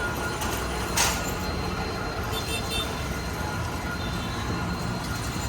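Diesel-hauled train rolling steadily over a level crossing, with one sharp clank about a second in.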